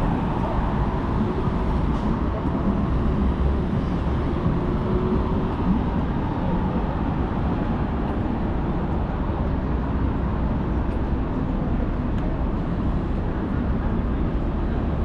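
Steady city street ambience, mostly a low rumble of passing traffic.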